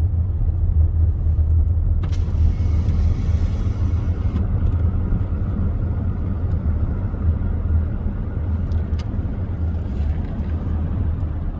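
Car driving, with a steady, loud low rumble of engine and road noise; a brief hiss joins it about two seconds in.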